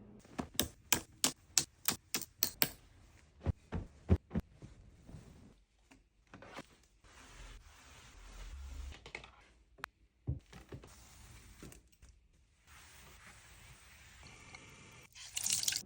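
Household cleaning handling sounds: a quick run of sharp clicks in the first few seconds, then scattered knocks and stretches of soft rustling noise, with a louder burst near the end.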